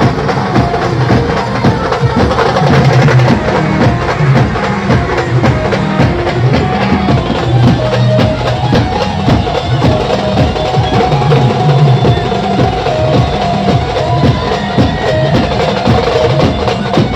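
Loud procession band music: fast, driving drumming with held melody notes over it.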